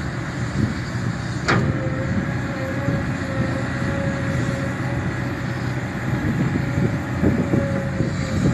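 Kobelco SK140LC excavator's diesel engine running steadily with a thin steady whine over it, and one sharp clank about a second and a half in.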